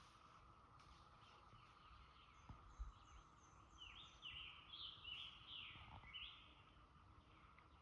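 Brood XIV periodical cicadas (17-year cicadas) chorusing as a faint steady high drone. A bird calls over it with a quick series of down-slurred chirps about four to six seconds in, and there is a soft low knock near three seconds.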